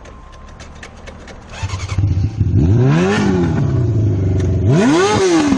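Motorcycle engine, quiet with faint ticking at first, then louder from under two seconds in and revving up and back down twice.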